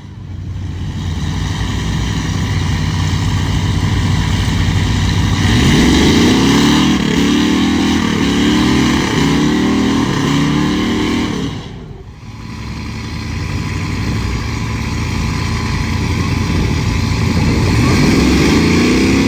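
Pulling truck's engine running hard under load, its pitch climbing in repeated waves about once a second. It drops away suddenly about two thirds of the way through, then builds and revs up again near the end.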